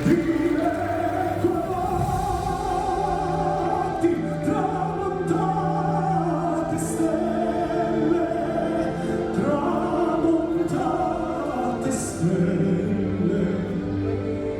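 Operatic-style singing with long held, wavering notes over instrumental accompaniment.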